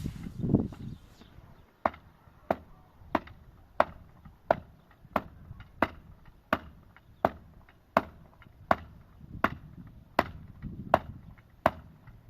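Steady, evenly spaced blows struck on wood, about one and a half a second, about fifteen in all, after a dull low rumble in the first second.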